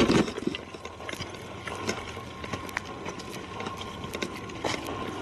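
Footsteps through leaf litter and twigs on a forest floor: an irregular run of small snaps and rustles, loudest right at the start.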